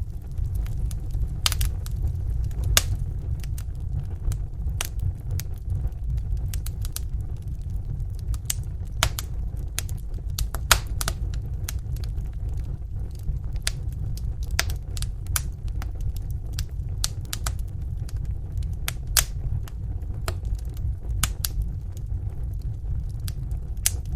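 Fireplace fire crackling, with irregular sharp pops and snaps, several a second, over a steady low rumble.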